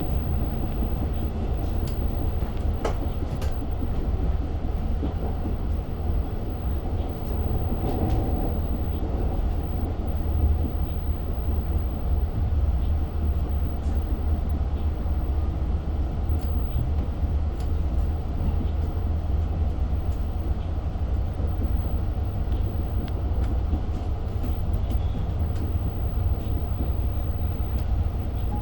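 Diesel-hauled Long Island Rail Road passenger train running, heard from inside the coach: a steady low rumble of wheels on rail, with a few faint clicks.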